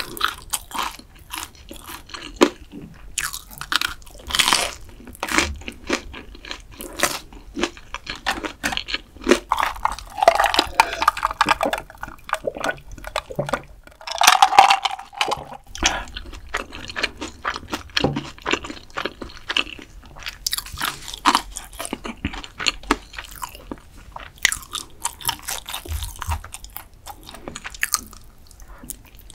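Close-miked eating: a long run of short crunches and chews of food, with swallows of cola from a glass about halfway through.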